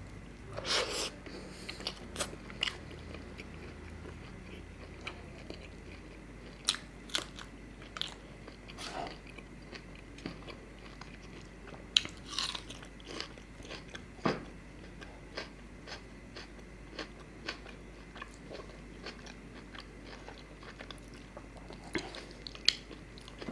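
Close-miked chewing of a mouthful of mint paratha with chicken curry, eaten by hand: irregular soft mouth clicks and smacks, with a few louder ones scattered through.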